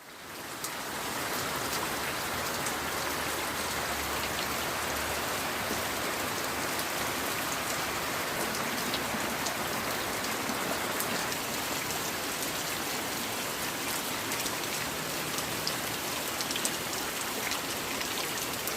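Steady rain falling, a constant hiss with scattered drips of individual drops landing, fading in over the first second or two.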